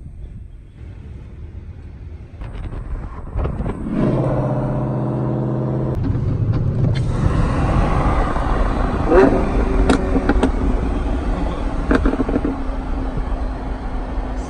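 Car engine running: after a few seconds it is held at steady revs for about two seconds, then runs on louder and rougher, with a few sharp clicks in between.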